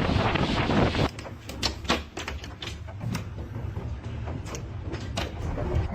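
Strong wind buffeting the microphone that cuts off abruptly about a second in, followed by scattered sharp knocks and rattles over a low rumble.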